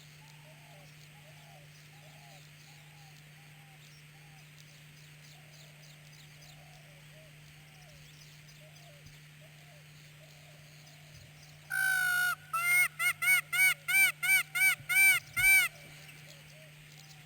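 A bird calling loudly, one long note followed by a quick run of about nine short notes that rise and fall, starting about twelve seconds in. Before it come soft, repeated chirps of other birds over a steady hiss.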